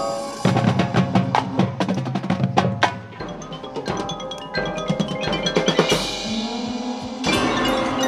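Marching band music led by the front ensemble's mallet percussion: quick struck notes of marimba and glockenspiel-like bars over sustained low notes. A cymbal-like swell builds about six seconds in, and a new loud entry comes a little after seven seconds.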